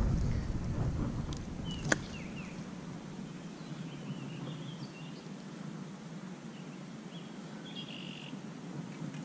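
Outdoor pond-side ambience: small birds give short chirps now and then over a faint hiss. A low rumble dies away over the first few seconds, and there is a single sharp click about two seconds in.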